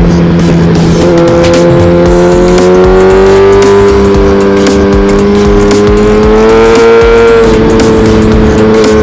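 Suzuki GSX-R1000R inline-four engine pulling hard under acceleration, its pitch rising steadily for several seconds, then dropping suddenly near the end as the rider shifts or eases off, with wind rushing over the helmet-mounted microphone.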